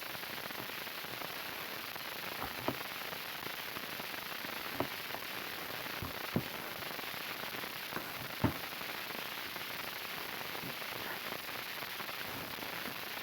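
Slime being squeezed and pressed by hand, giving a few sharp little pops and clicks spread over several seconds above a steady hiss.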